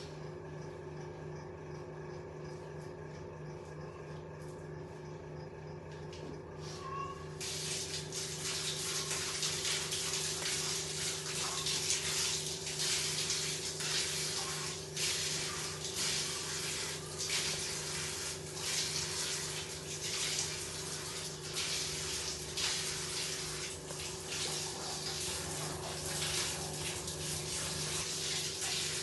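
Water running steadily, starting abruptly about seven seconds in, over a low steady hum.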